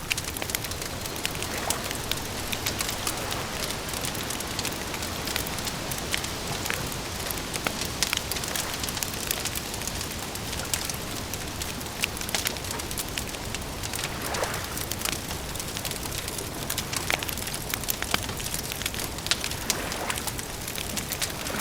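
Wood fire crackling, with frequent irregular sharp pops and snaps over a steady hiss; twice near the end a faint short whistle rises out of it.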